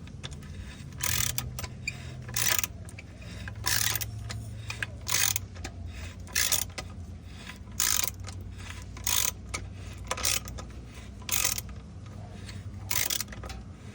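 Hand ratchet being worked to drive a bolt, a short burst of ratchet clicking on each back-stroke about every second and a half.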